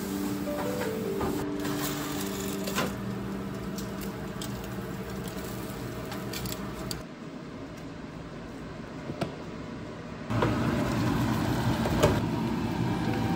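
Background music fades out in the first few seconds, followed by a few light clicks. About ten seconds in, loud, steady sizzling starts suddenly: chicken feet and giblets frying in a hot wok.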